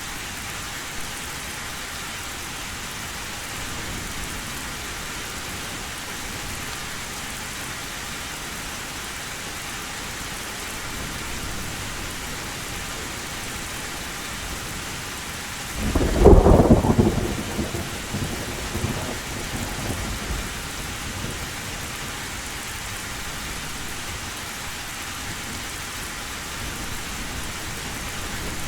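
Heavy rain falling steadily on a tin roof, with a loud thunderclap about halfway through that rumbles on for several seconds before fading back into the rain.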